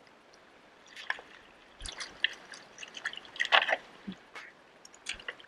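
Irregular small knocks, clicks and water drips and splashes as wet kayak gear is handled and loaded, the loudest burst about three and a half seconds in.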